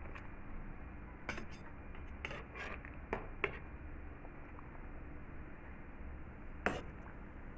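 Kitchen utensils and dishes clinking and knocking: a handful of sharp clicks about a second into the sound and again near the end, over a steady low hum.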